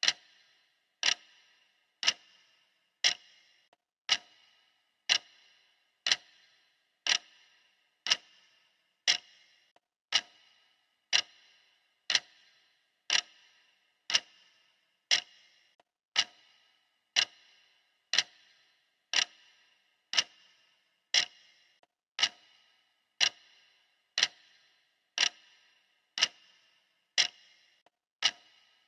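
Clock ticking steadily, one sharp tick about every second, each tick with a brief ring after it.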